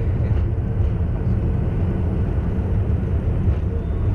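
Steady low rumble of a Boeing 787-9's Rolls-Royce engines and airflow, heard inside the cabin in flight.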